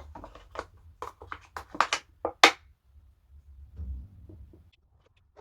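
A run of small sharp clicks and taps as tools and materials are handled on a worktable, the loudest about two and a half seconds in, followed by a low dull bump.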